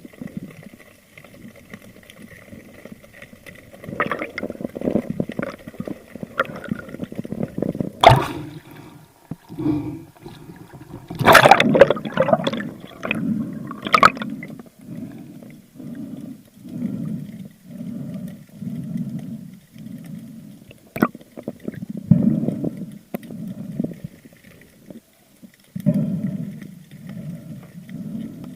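Water gurgling and sloshing heard underwater, with a sharp knock about a third of the way in and a cluster of sharp strokes in the middle. In the second half a low pulsing repeats about once a second.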